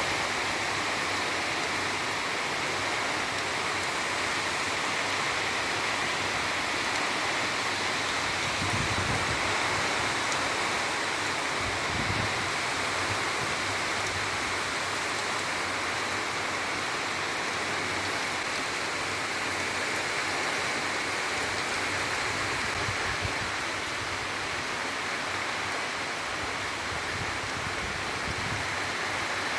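Heavy rain pouring down steadily, with a few brief low gusts of wind about nine and twelve seconds in.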